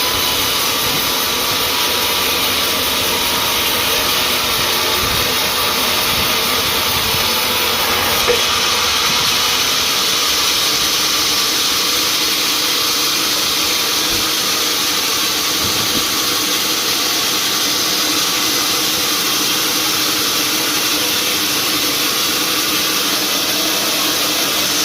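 Sawmill machinery running steadily: a loud, even mechanical noise with a faint hum, and one small knock about eight seconds in.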